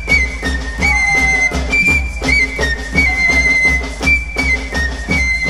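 Amazonian folk dance music: a high flute melody repeats a short stepwise phrase over a steady drum beat and bass.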